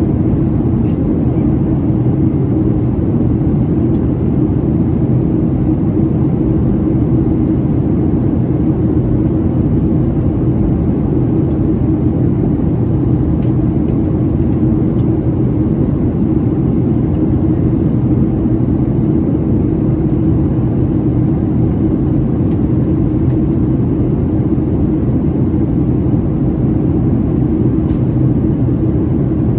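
Steady cabin noise inside a Boeing 737-700 in descent: the CFM56-7B engines and airflow over the fuselage make an even rush with a constant hum underneath.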